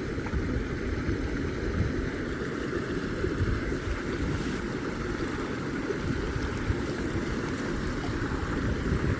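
Creek water running steadily, a constant rush without a break.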